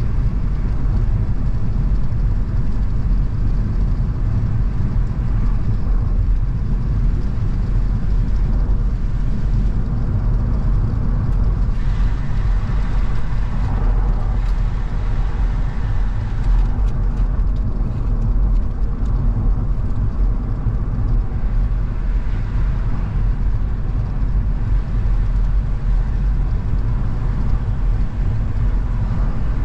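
A car driving at road speed, with a steady low rumble of engine and tyre noise. The noise swells in the middle range for a few seconds about twelve seconds in.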